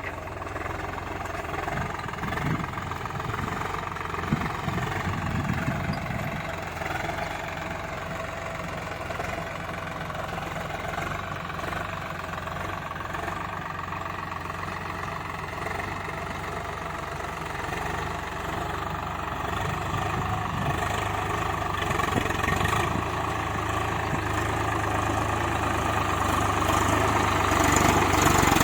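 Swaraj 744 tractor's three-cylinder diesel engine running steadily, growing louder over the last few seconds.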